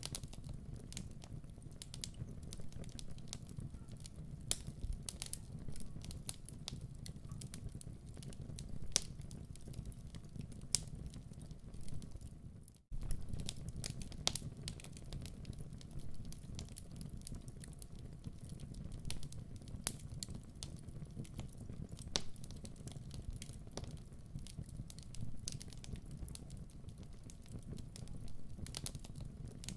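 Wood fire burning in a fireplace, with a steady low rumble of flames and irregular sharp crackles and pops. The sound cuts out for a split second about thirteen seconds in, then resumes.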